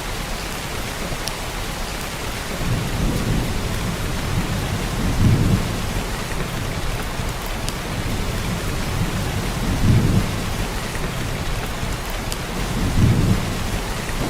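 Heavy, steady downpour of rain, with low rumbles of thunder swelling up four times, loudest about five, ten and thirteen seconds in. Now and then a single drop clicks close by.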